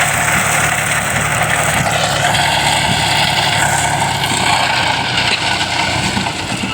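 John Deere tractor's diesel engine running steadily under load, driving a cotton shredder.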